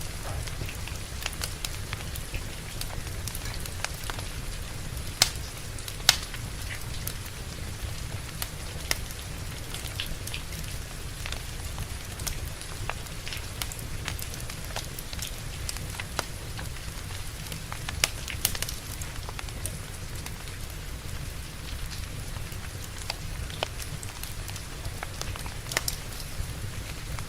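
Steady rain with a crackling wood fire: a constant low wash of rainfall under scattered sharp pops and snaps, a few louder pops about five, six and eighteen seconds in.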